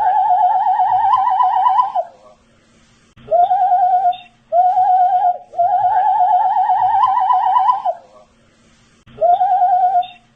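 A man whistling through his lips: short steady notes and longer warbling notes that rise slightly in pitch, in phrases with gaps of about a second between them.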